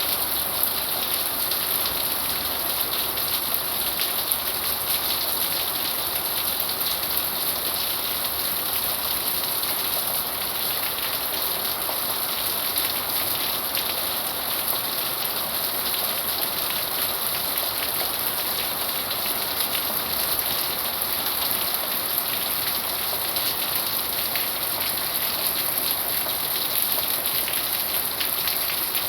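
Heavy rain falling steadily: an even hiss with many fine drop impacts, unchanging in level.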